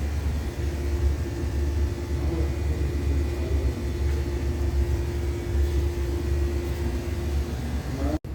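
Steady low mechanical hum and rumble with a constant mid-pitched tone running over it; the tone stops near the end, and the sound cuts off abruptly just before the end.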